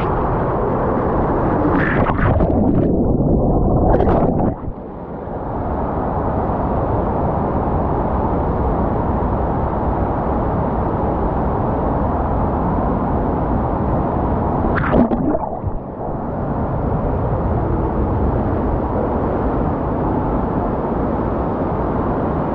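Rushing water and a steady rumble of a ride down a water slide, with brief surges and dips about two to four seconds in and again about fifteen seconds in.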